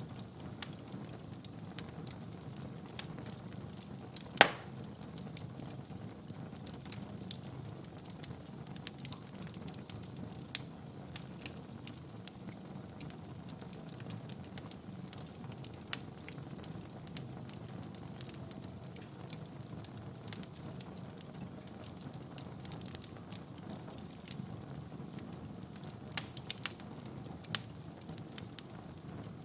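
Wood fire burning in a fireplace: a steady low rumble of flames with scattered sharp crackles and pops. One loud pop comes about four seconds in, and a quick run of pops comes near the end.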